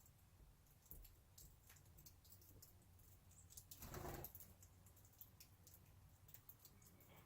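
Faint, scattered high-pitched clicks and ticks, with one brief, louder rustling sound about four seconds in.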